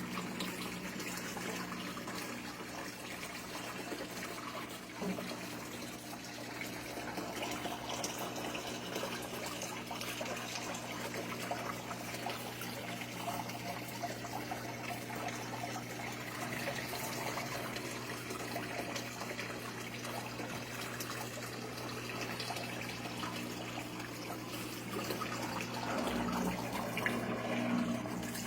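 Washing machine running, with water splashing and running inside over a steady low motor hum that grows louder near the end.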